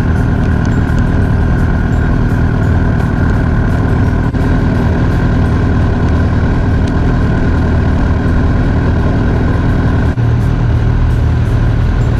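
Sportbike engine running at steady revs at cruising speed, with wind rushing over the camera microphone.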